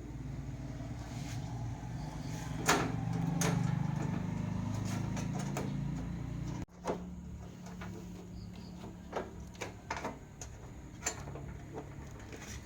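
A steady low hum that cuts off abruptly a little past halfway, with scattered sharp clicks and knocks of small hard objects being handled, several of them in the second half.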